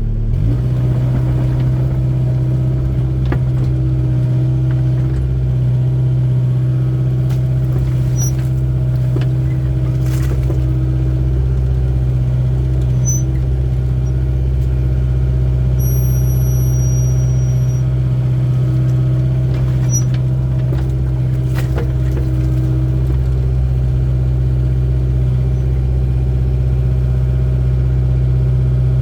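Hydraulic excavator's diesel engine running steadily under work while digging a trench, with a few faint clicks and a brief high squeak partway through.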